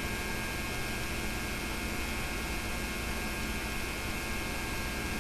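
Steady electrical hum with hiss from an old analogue tape transfer of silent film, unchanging throughout; no other sound.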